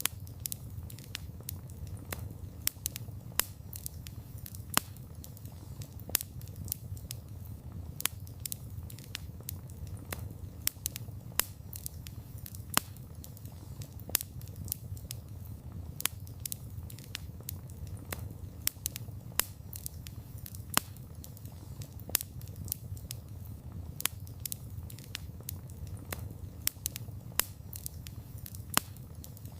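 Wood fire burning: a steady low rumble of flames with frequent sharp crackles and pops of burning wood, several a second at irregular intervals.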